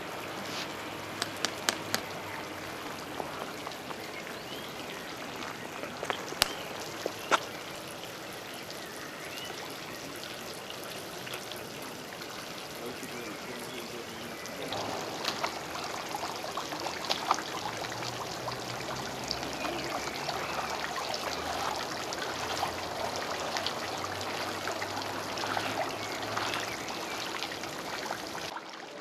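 Water trickling and splashing, with scattered sharp clicks; the sound grows louder and busier about halfway through.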